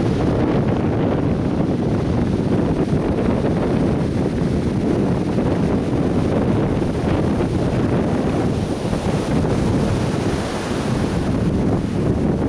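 Atlantic Ocean surf washing steadily onto a beach, a continuous rushing roar of waves heavy in the low end, with wind buffeting the microphone.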